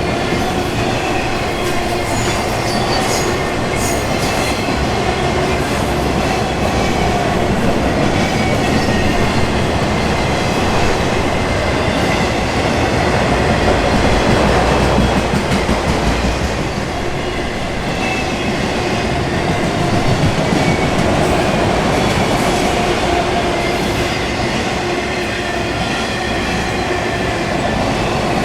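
Auto rack freight cars rolling past: steady, loud wheel-on-rail rumble, with a few thin high squeals from the wheels.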